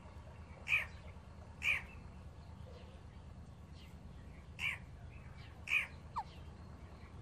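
Baby Alexandrine parakeets squawking: four short harsh calls, two about a second apart near the start and two more about three seconds later, then a brief falling whistle.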